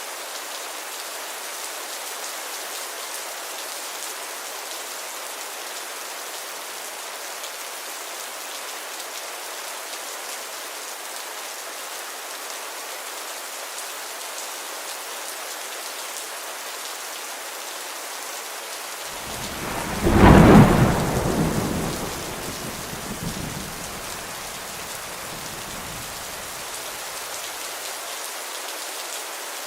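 Steady rain falling, with a clap of thunder about two-thirds of the way through that rumbles away over several seconds.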